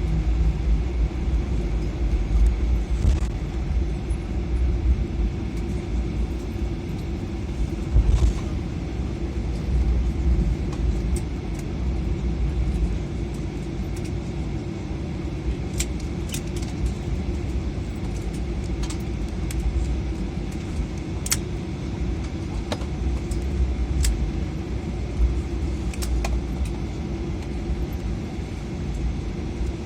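Cabin noise of an Airbus A320 rolling on the ground after landing: a steady low rumble with an engine hum, a bump about eight seconds in, and light clicks and rattles of the cabin fittings scattered through the second half.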